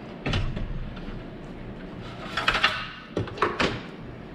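Knocks and clattering from handling the metal saw stand and miter saw: one knock just after the start, then two short bursts of clatter about two and a half and three and a half seconds in.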